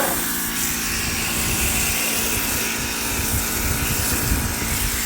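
Ryobi electric pressure washer running steadily, its motor humming under the hiss of water spraying from the wand.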